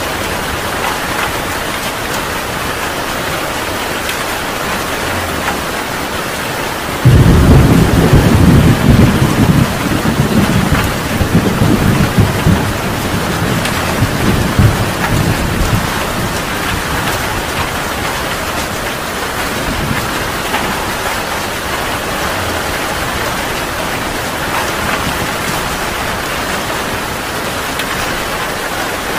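Heavy rain falling steadily. About seven seconds in, a thunderclap breaks in suddenly and loudly, then rumbles on for about eight seconds before fading back into the rain.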